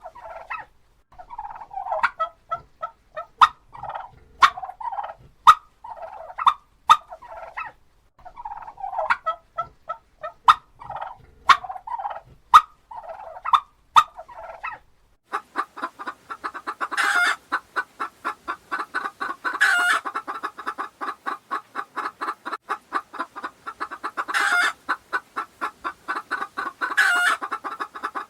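Animal calls: short repeated call bursts about once a second, then from about halfway a faster, continuous pulsing call with louder swells every two to three seconds.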